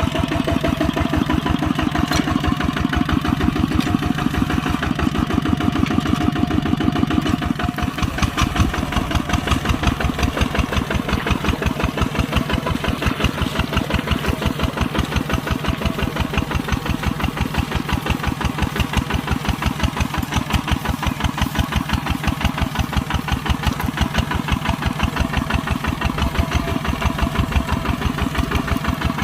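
Kubota tractor's diesel engine running steadily under plowing load, with a fast even pulsing beat; its tone changes slightly about seven seconds in.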